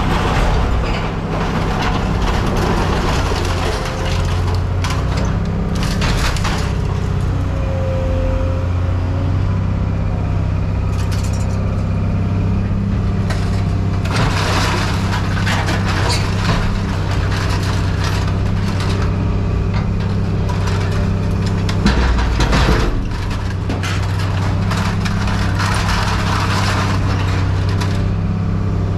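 A heavy machine's engine running steadily, with scrap metal clattering and crashing at intervals as it is moved.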